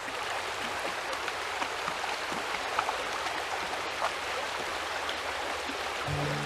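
Creek water running steadily over a shallow bed, with small splashes and trickles scattered through it. Background music comes in near the end.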